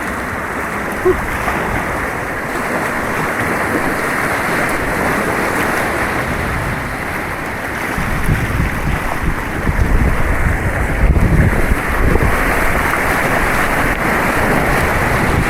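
Rushing white water on an artificial white-water course, a steady loud wash of noise, with heavier low rumbling buffeting on the microphone about halfway through.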